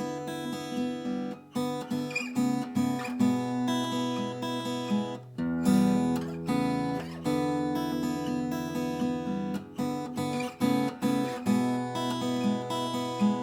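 1970s Japanese steel-string acoustic guitar being played: chords picked and strummed, with the bass note changing every second or two.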